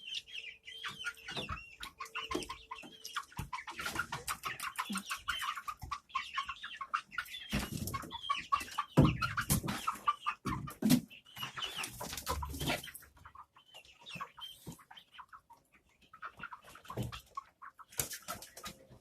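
Backyard hens clucking and calling in a flurry of short, squawky notes, a few louder thumps of movement among them about halfway through, as the flock is pushed out of the coop.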